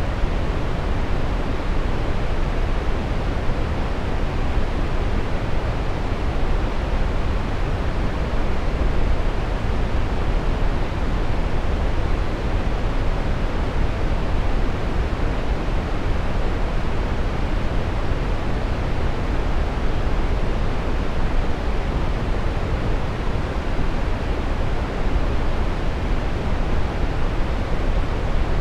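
Steady brown noise: an even, unchanging rush with most of its weight in the low end, falling away toward the highs.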